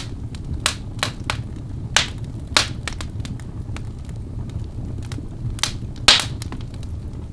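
Fire in a fireplace crackling: irregular sharp pops and snaps over a steady low rumble, with the loudest pop about six seconds in.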